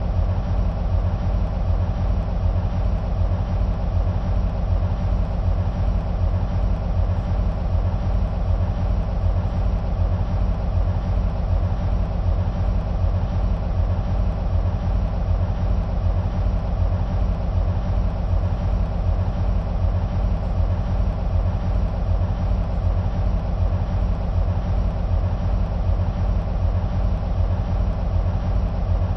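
EMD SW1500 switcher locomotives' 12-cylinder two-stroke diesel engines idling: a steady, deep, throbbing rumble with no change in speed.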